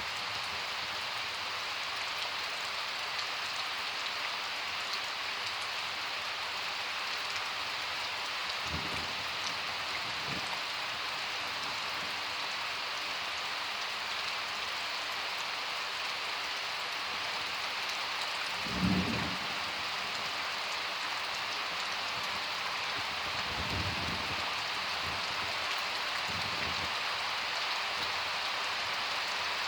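Steady rain falling hard in a summer thunderstorm, an even hiss throughout. A few brief low thumps come through it, the loudest a little past halfway.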